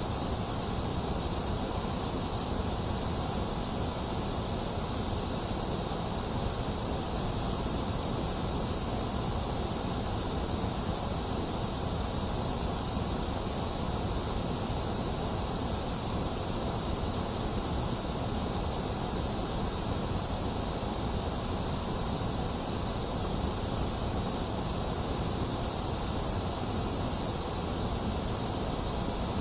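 Box fan running together with steady rain: an even, unchanging noise with a low rumble and a bright hiss.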